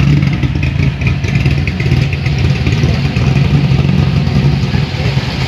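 A loud car engine running with a deep, steady rumble.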